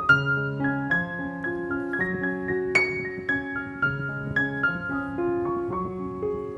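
Background piano music: a gentle melody of single notes over a bass line.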